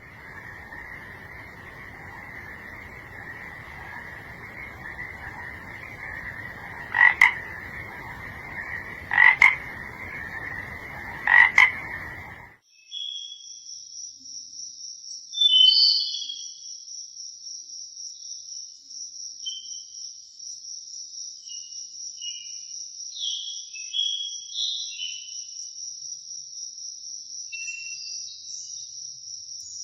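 A frog chorus: a steady croaking din with three louder calls standing out about two seconds apart. It cuts off suddenly and gives way to a steady high-pitched insect trill with scattered short chirping calls over it.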